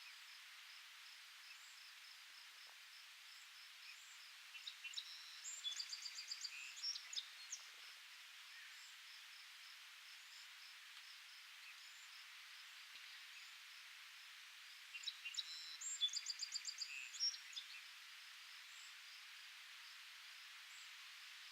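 A songbird sings two trilling phrases of about three seconds each, some ten seconds apart, over a steady high hiss of outdoor ambience with faint rapid high ticking.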